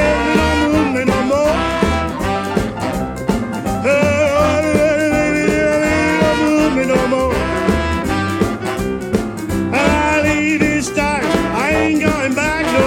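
Live rhythm-and-blues band playing an instrumental break: a horn plays a solo line with bending, sliding notes over a steady bass and drum beat.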